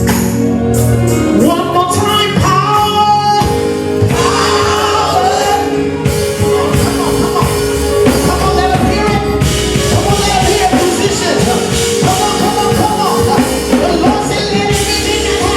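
Live gospel worship music: singing over sustained chords and a steady drum beat.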